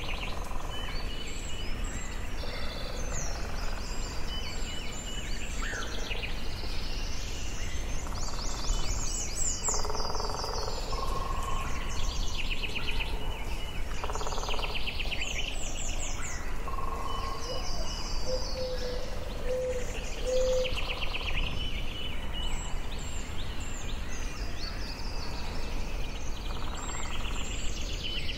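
Forest ambience: several songbirds singing and calling in overlapping short phrases and rapid trills, over a steady low background rumble.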